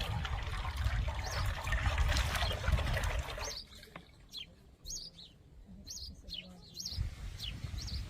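Small birds chirping repeatedly, with running water over the first half that stops about three and a half seconds in, leaving the birdsong clear.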